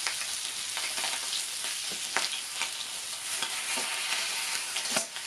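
Bacon sizzling steadily in a pan over a campfire, with a few short sharp clicks and pops, the strongest about two seconds in and near the end.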